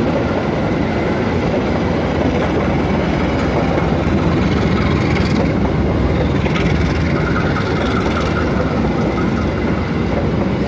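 Passenger train hauled by a KAI diesel locomotive running past: a steady, loud rumble of engine and wheels on the rails. A faint high whine joins in during the second half.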